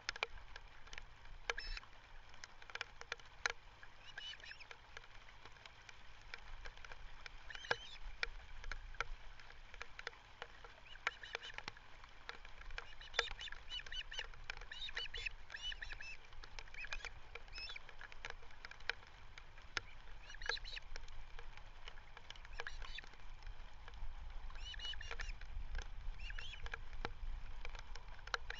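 Birds calling in repeated short series of high-pitched notes every few seconds, over a low wind rumble on the microphone, with scattered sharp clicks.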